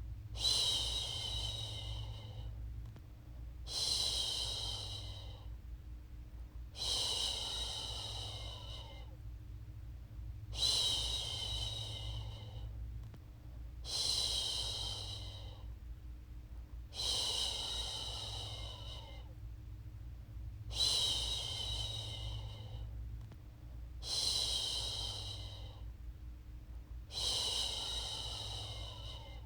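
A woman shushing a baby to sleep, 'shhh' over and over. Each shush is a hiss that starts sharply and fades away over two to three seconds, repeated about every three and a half seconds, nine times, over a steady low hum.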